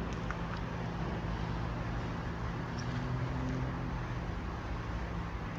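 Steady low mechanical hum over a constant background noise, with a brief higher hum joining in around the middle.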